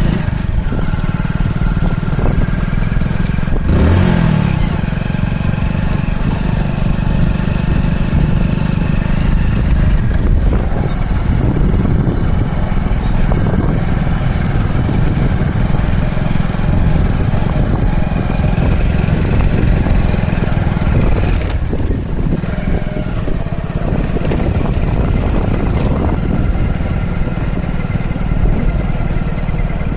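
A vehicle engine running steadily with a loud low rumble.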